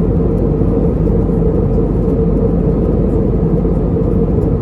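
Airbus A320neo cabin noise in cruise flight: a loud, steady rumble of engines and airflow with a steady hum through it.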